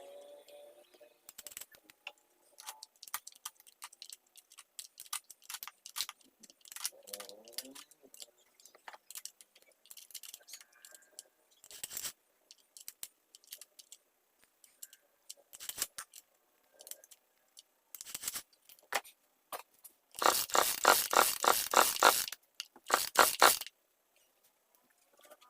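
Scattered clicks, knocks and scrapes of small hard parts being handled, sped up by the timelapse, with a loud rapid clattering rattle for about two seconds near the end and a shorter one just after.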